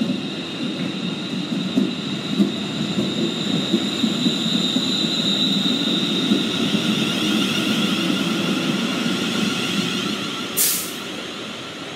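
TransPennine Express train running past the platform: a steady rumble of wheels on rail with a continuous high-pitched whine. A short sharp hiss comes about ten and a half seconds in, and the sound then starts to fade.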